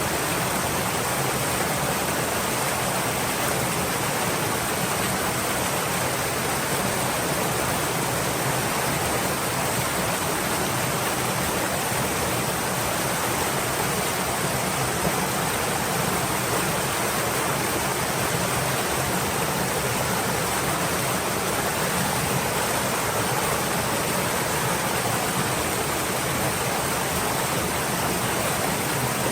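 A flowing stream: a steady, even rush of water that does not change.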